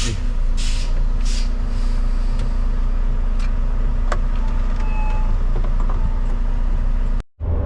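Semi truck's diesel engine idling steadily, with two short hisses about a second in and a few light clicks. The sound drops out for a moment near the end.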